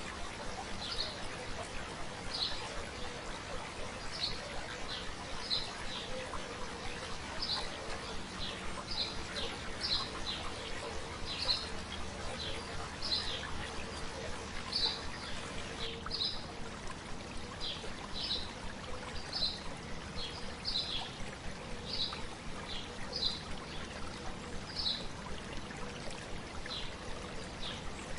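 Stream babbling steadily, with a bird repeating short high chirps about once a second.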